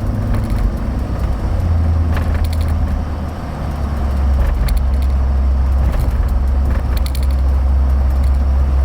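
Cab-interior drone of a 2013 Chevrolet Avalanche's 5.3-litre V8 and its tyres while driving on a road. The low steady engine note drops to a lower pitch about a second and a half in, with a few scattered light knocks and rattles.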